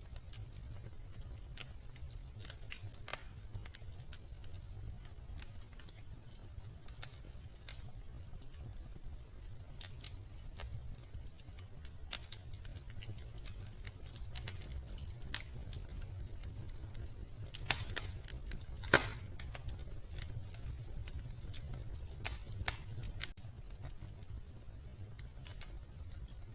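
Wood fire crackling in a fireplace: irregular sharp snaps and crackles over a low steady rumble, with a couple of louder pops about two-thirds of the way through.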